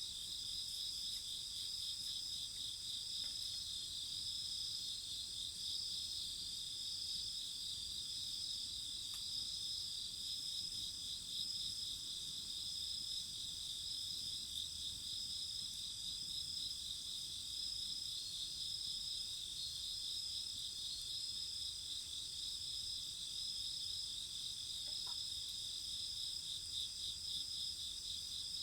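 A steady chorus of crickets and other night insects, several high pulsing trills going on without a break. There are a few faint clicks.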